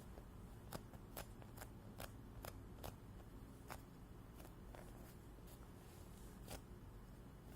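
Squishy foam toy being squeezed and handled close to the microphone: faint, irregular crackling clicks, roughly two a second, over a low steady hum.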